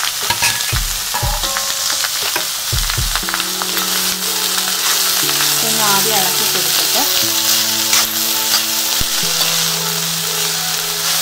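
Chopped green chilli, onion and grated coconut sizzling steadily in hot oil in a cheenachatti wok, stirred with a metal spatula that scrapes and clicks against the pan.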